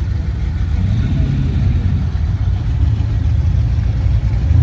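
Classic car engine running with a loud, low rumble.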